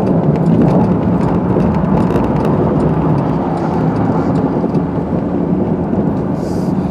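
Car driving on snowy streets, heard from inside: a steady rumble of engine and tyre noise.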